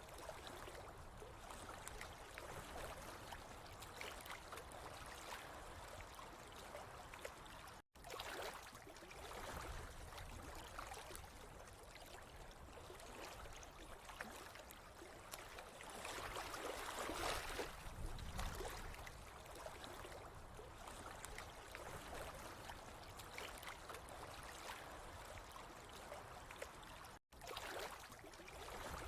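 Water flowing and trickling steadily, swelling a little past the middle, and breaking off for an instant twice.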